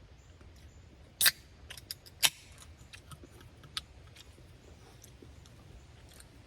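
A few sharp clicks and taps of an eating utensil against a bowl while noodles are being eaten. The two loudest come about a second apart, with lighter ticks between them and one more a little later.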